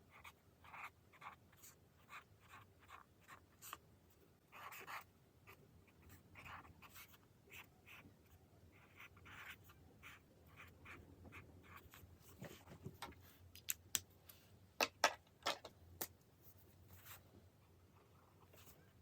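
Pen drawing and writing on journal paper: quiet, short scratching strokes one after another, with a few sharper clicks near the end.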